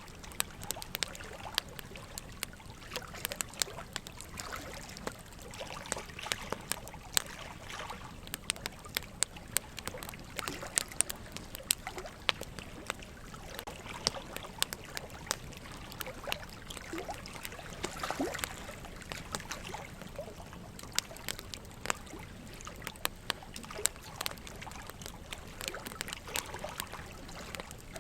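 Wood fire crackling in a fireplace, with frequent irregular sharp pops of burning logs, over a steady trickle of running water.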